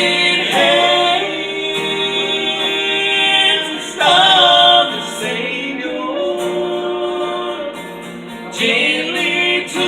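Live gospel singing: a slow song sung with long held, drawn-out notes, swelling loudest about four seconds in.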